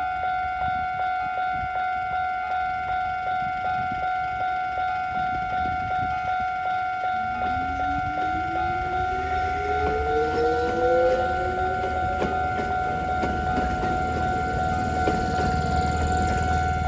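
Level-crossing warning bell ringing steadily at about two strokes a second. From about seven seconds in, a Kōnan Railway Ōwani Line train's traction motors whine rising in pitch as it accelerates, with a growing low rumble.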